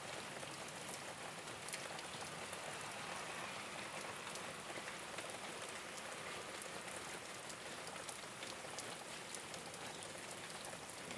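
Steady rain falling on a rooftop, a constant hiss dotted with the ticks of individual drops striking the surface.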